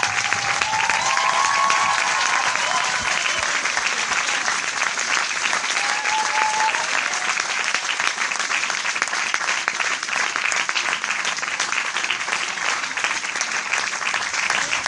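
A large audience applauding: dense, steady clapping without a break, with a few faint short pitched calls within the crowd near the start and about six seconds in.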